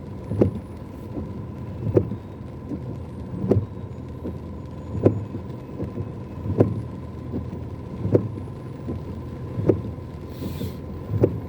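Car windscreen wipers working against heavy rain, a thump at the end of each sweep about every second and a half, over the steady low hum of the car's cabin.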